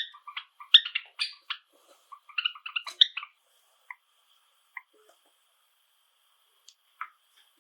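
Java sparrows chirping: a quick run of short chirps and clicks for about the first three seconds, then a few single chirps spaced out.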